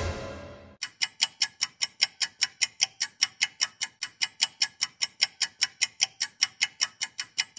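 Steady, even clock-like ticking, about five ticks a second, after music dies away in the first second.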